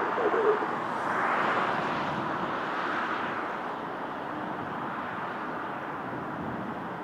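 Airbus A330-243 jet arriving, its Rolls-Royce Trent 700 engines making a steady rushing roar that swells about a second in and then eases off a little.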